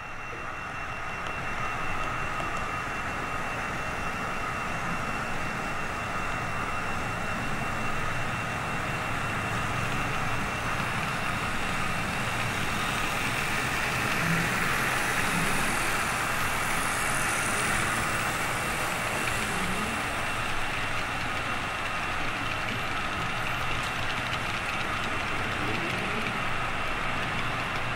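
HO-scale model train running on layout track: a steady mechanical whir of the locomotive's motor and wheels on rail, with a constant thin whine, growing a little louder over the first couple of seconds.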